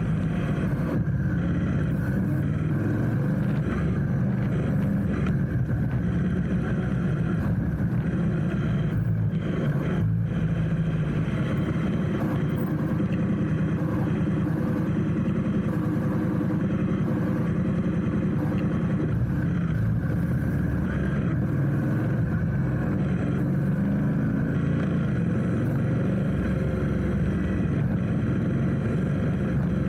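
A motorcycle engine running steadily at low speed, a constant low rumble with small rises in pitch now and then.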